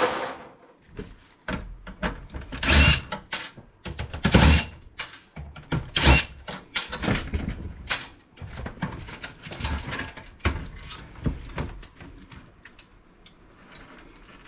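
Irregular knocks, clicks and short scrapes of computer case parts being handled and pulled apart during disassembly, with two louder clatters a few seconds in.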